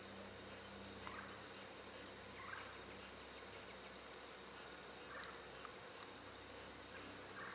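Faint outdoor birdsong ambience: a few distant, rough bird calls spaced a second or two apart, with faint high chirps.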